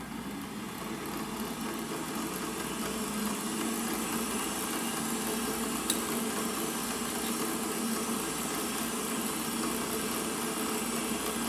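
Milling machine spindle motor running with a steady hum, its level building slightly over the first few seconds, while the end mill is fed toward the work but has not yet touched it. A single light click about six seconds in.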